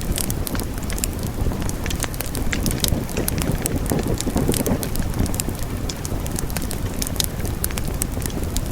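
Wood fire burning, with a steady low rumble of flames and frequent sharp, irregular crackles and pops.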